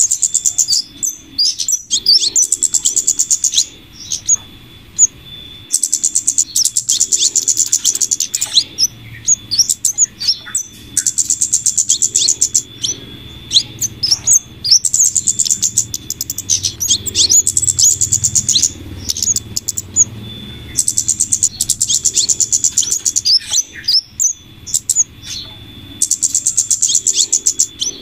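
A looped lure recording of flowerpecker calls mixed with female scarlet minivet calls. Rapid trains of high, thin chips lasting a few seconds alternate with single sharp call notes, and the pattern repeats over and over. A faint steady high tone runs beneath.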